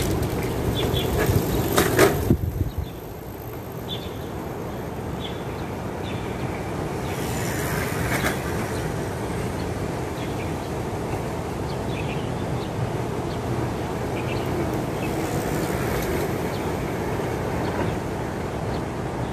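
Steady outdoor background noise with short, faint, high bird chirps every few seconds and a few sharp clicks about two seconds in.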